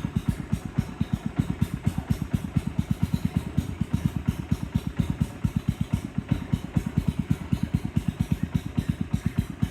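A boat's engine running steadily with a low, even putt-putt of about seven beats a second.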